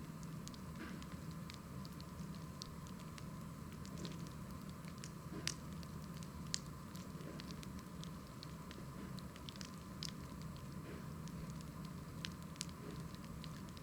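Wood fire crackling: a steady stream of small irregular pops and snaps, with a couple of sharper, louder pops about five and six seconds in.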